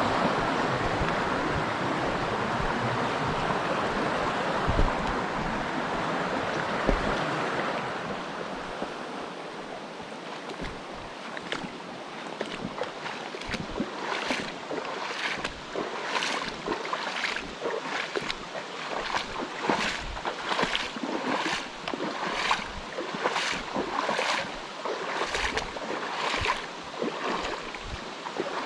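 Mountain stream water rushing loudly, fading after about eight seconds. Then steady walking footsteps begin about eleven seconds in, roughly one step every 0.6 seconds, over the softer sound of the water.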